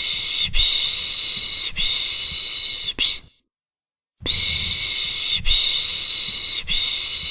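A person shushing a baby ("shh, shh") to soothe it: a run of long shushes of about a second each ending on a short one, a pause of about a second, and then the same run again.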